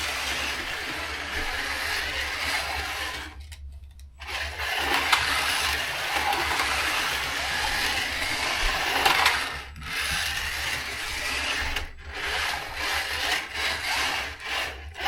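Carrera GO!!! slot cars whirring around the plastic track on their small electric motors. The whir cuts out briefly about three and a half seconds in, and again a few times later on.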